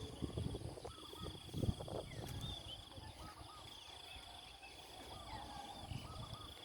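Outdoor morning ambience: an insect's high, steady trill that breaks off and starts again a few times, with scattered short bird chirps. Low thumps and rumble in the first two seconds.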